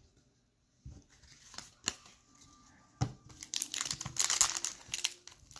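Foil wrapper of a pack of football trading cards being crinkled and torn open, with a few light taps at first and then steady crinkling from about halfway through.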